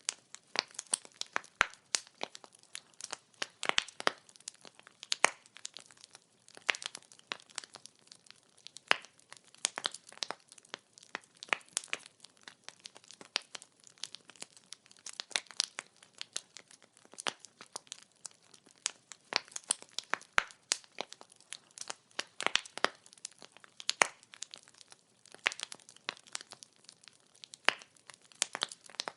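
Wood fire crackling: burning logs give off a steady stream of irregular sharp pops and snaps, several a second, over a faint hiss.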